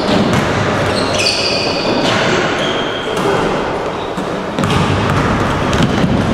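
Indoor basketball game: a ball bouncing on a hard court with several sharp impacts, and brief high squeaks over a busy, echoing hall with voices.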